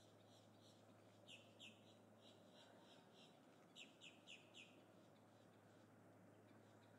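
Faint bird chirps: series of short, quickly repeated high notes, louder in two runs about a second in and about four seconds in, over a low steady hum.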